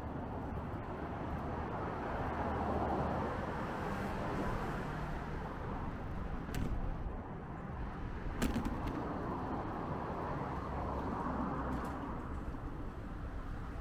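Steady rumbling street noise heard from a moving bicycle in city traffic, with two short sharp clicks around the middle.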